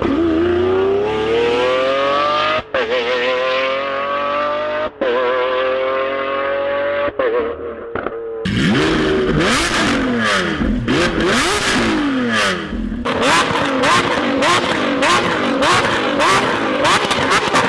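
Lamborghini Aventador SVJ's V12 through a Novitec exhaust, pulling hard with its pitch climbing and three quick upshifts that each cut it off for an instant. It then revs up and down repeatedly, and in the last few seconds rapid sharp crackles and pops come from the exhaust.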